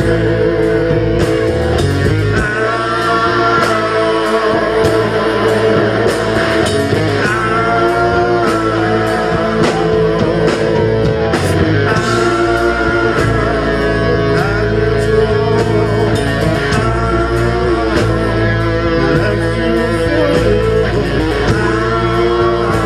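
Live rock band playing: electric guitars over bass and drums keeping a steady beat.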